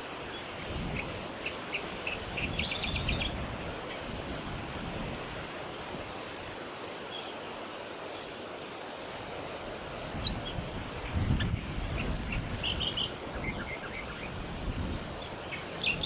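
Short high bird chirps in small clusters over a steady outdoor hiss of wind and leaves, with low wind buffeting on the microphone. There is one sharp tick about ten seconds in, and another burst of chirps right at the end.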